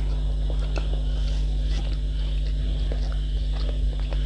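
A person chewing and biting food close to the microphone, with irregular small wet clicks and smacks. A steady low hum runs underneath.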